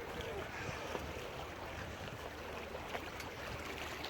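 Steady harbour-side background noise: an even hiss of wind and moving water with no distinct event standing out.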